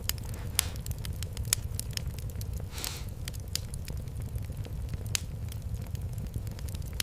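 Wood fire in a fireplace crackling, with irregular sharp pops over a steady low rumble, and a short hiss about three seconds in.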